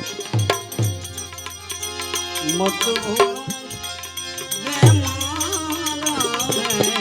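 Devotional bhajan music: a man's sung voice over hand drums, with deep drum strokes that drop in pitch about a second in and again about five seconds in, and a continuous jingling percussion rhythm.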